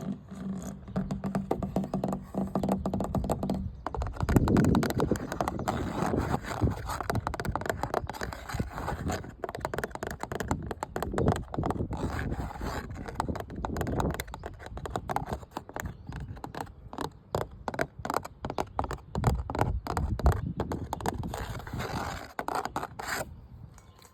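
Rapid, continuous scratching on a hard object, starting about four seconds in and stopping suddenly shortly before the end. Before it, lighter tapping-like sounds over a steady low hum.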